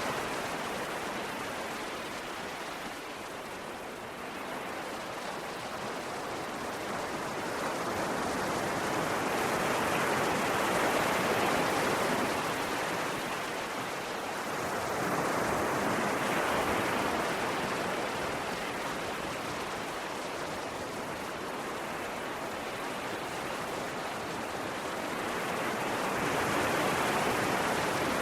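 Ocean waves breaking and washing on the shore in a continuous rush that swells and fades every several seconds.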